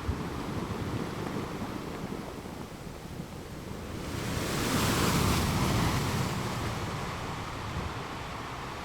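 Sea waves crashing on rocks: a steady low rumble of surf, with one wave breaking about four seconds in, its hiss swelling and then fading away over the next few seconds.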